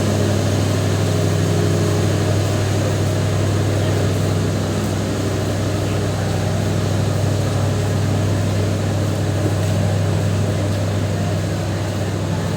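Diesel locomotive engine running with a steady low drone while the passenger train pulls out, with the rumble and rattle of the moving train over it.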